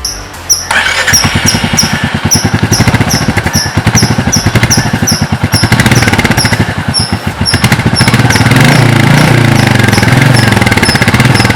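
Royal Enfield Meteor 350's single-cylinder engine running, with a rapid even exhaust pulse that rises and wavers in pitch from about eight seconds in. A high chirp repeats about twice a second above it.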